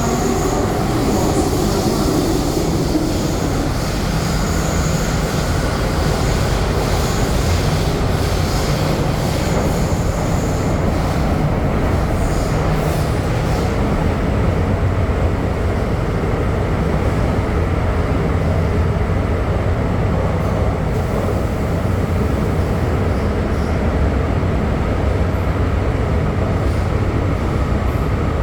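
MTR M-train electric multiple unit running at speed, a steady loud rumble of wheels on rails from inside the car. A motor tone falls in pitch over the first few seconds.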